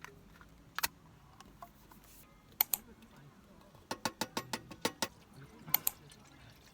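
Sharp light clicks and clinks of cooking gear being handled, with a quick run of about eight clicks in the middle and a few single and paired clicks around it.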